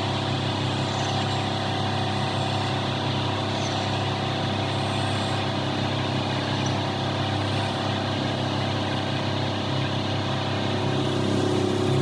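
A motor-driven machine running steadily at constant speed: an even low hum with a few faint steady higher tones above it.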